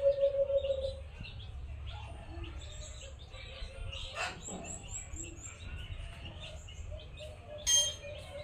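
Dove cooing, a fast run of low pulsed coos that stops about a second in and comes back faintly later, with small birds chirping high and thin in the background. Near the end comes a short, bright ringing clink.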